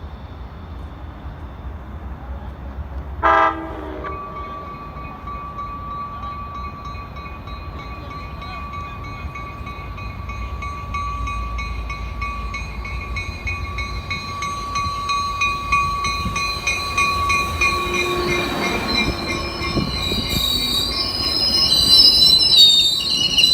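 A passenger train gives one short horn blast about three seconds in, then its wheels squeal steadily against the rails as it rolls in, the squeal and rumble growing louder, with several sharper squeals near the end.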